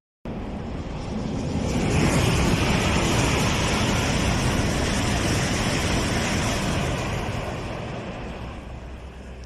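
Chinese high-speed EMU train passing at speed without stopping: a rushing noise that swells over the first two seconds, holds steady, then fades away over the last few seconds.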